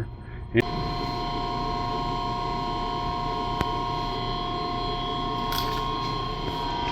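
Gas boiler room machinery running: a steady mechanical hum with a few steady whining tones over it, starting abruptly about half a second in.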